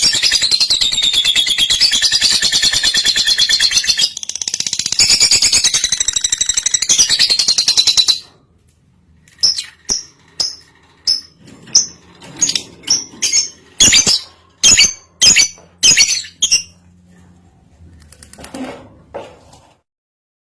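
Lovebird in breeding condition calling: a long, very fast chattering trill that stops abruptly about eight seconds in, followed by a string of separate sharp, high chirps about two a second, with a couple of fainter calls near the end.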